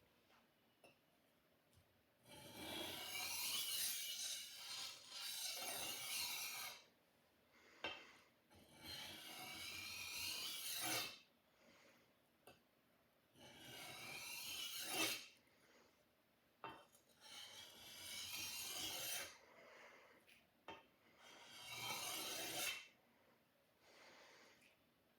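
A sword blade being sharpened: about six long strokes of metal drawn across an abrasive, each lasting a second and a half to two and a half seconds, with short pauses between them.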